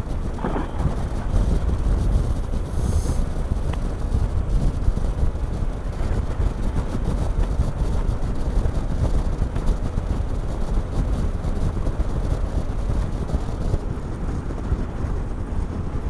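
Triumph Tiger 1200 three-cylinder motorcycle riding steadily at road speed, with a constant low rumble of engine, road and wind noise over the microphone.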